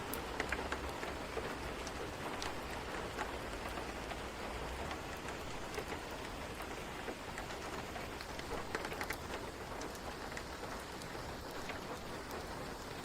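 Rain and fireplace ambience: a steady hiss of rain with scattered sharp crackles.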